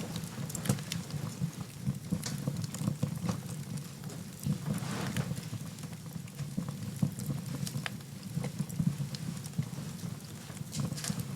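Wood fire crackling in a fireplace: irregular sharp pops and snaps over a steady low rumble of the flames, with a brief hiss about five seconds in.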